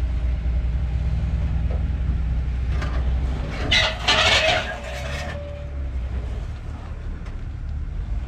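An off-road vehicle's engine running at low revs while crawling. About four seconds in, a loud, brief scraping or hissing burst cuts in for roughly a second and a half.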